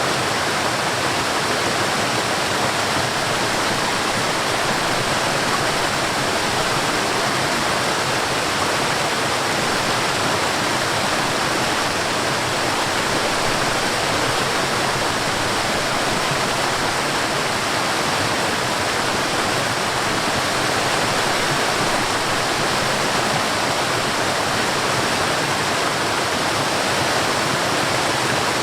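Mountain stream and waterfall, water rushing and splashing in a steady, unbroken hiss.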